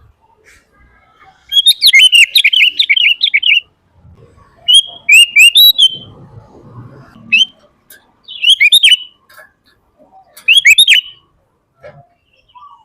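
Sooty-headed bulbul (kutilang) singing in lively, rapid bursts: five chattering phrases of quick sweeping notes, separated by short pauses.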